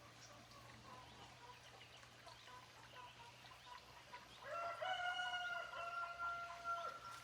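A rooster crows once: one long held call starting a little after four seconds in. Faint clucking and chirps come before it.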